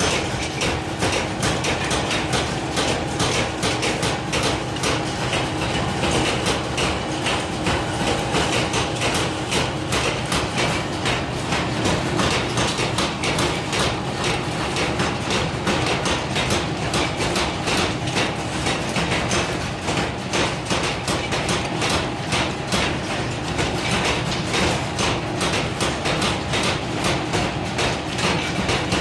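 Metalworking machinery running, with a dense, fast run of metal knocks and clatter over a steady hum.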